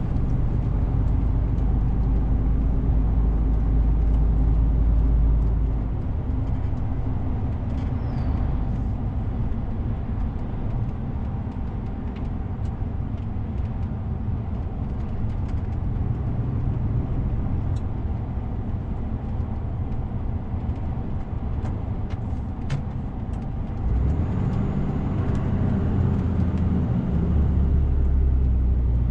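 DAF CF 450 truck's inline-six diesel engine running while driving, with road noise. The deep engine drone drops about six seconds in and rises again about five seconds before the end.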